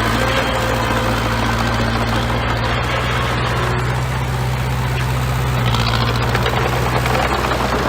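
Bulldozer's diesel engine running steadily while working, a little louder about six seconds in.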